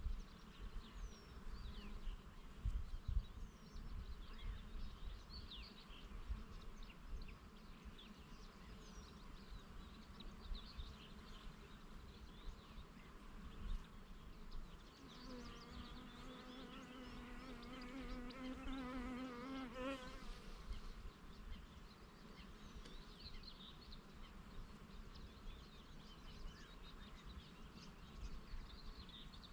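A bee flying close by, buzzing with a wavering hum for about five seconds in the middle, over scattered bird chirps. Wind rumbles on the microphone in the first few seconds.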